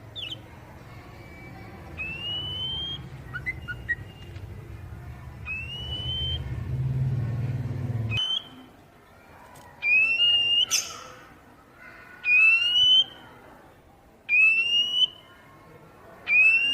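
Oriental magpie-robin (kacer) calling, a single rising whistled note repeated about every two seconds, louder in the second half. A low hum underneath cuts off about eight seconds in.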